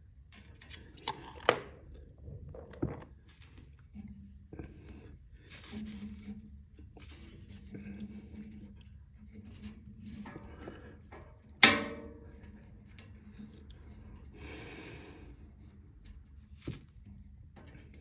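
Hands working on metal fittings: scattered clicks, scrapes and rubbing, a loud metallic clank a little past halfway that rings briefly, and a short hiss a few seconds later.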